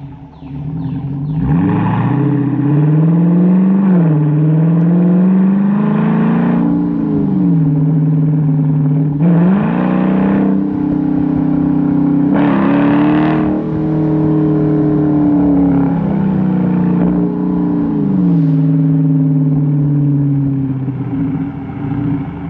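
Chrysler 300's Hemi V8 exhaust through Carven R mufflers with the resonator deleted, running hard. Its pitch climbs and drops several times, with louder, raspier bursts of throttle about a third and a little over half way in.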